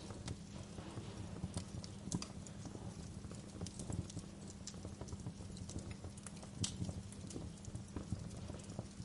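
Wood fire crackling in a fireplace: irregular sharp pops and snaps over a steady low rumble of the flames, with louder pops about two seconds in and near the end.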